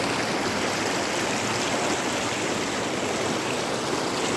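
Running water, a steady even rush that neither rises nor falls.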